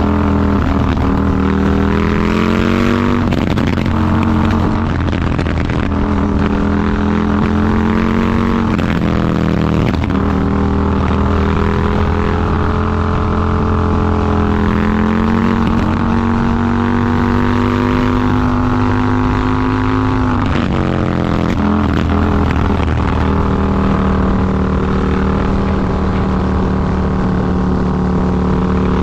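Indian FTR 1200's V-twin engine running hard under acceleration, its note climbing steadily and dropping sharply in pitch about 3, 9 and 20 seconds in and again near the end.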